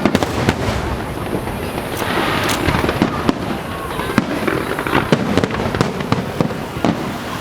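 Aerial fireworks display: a dense, irregular barrage of shell bursts booming and crackling, several reports a second over a continuous rumble.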